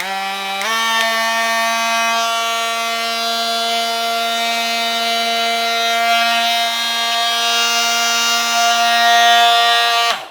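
Porter-Cable 20V cordless oscillating multi-tool running unloaded: a steady high-pitched buzzing whine. Its pitch steps up once, just under a second in, as the speed is turned up to the top setting, then holds steady until the motor cuts off at the very end.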